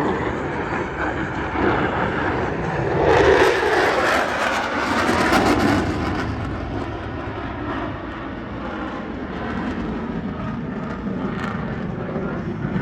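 F-16 Fighting Falcon jet engine roaring past overhead. It is loudest about three to six seconds in, then fades to a steady, lower rumble.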